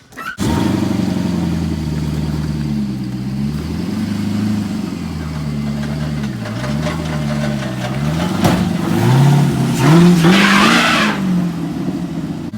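A vehicle engine revving up and down under load, straining up a snowy hill on a towing attempt, with a loud hiss of tyres spinning on snow near the end.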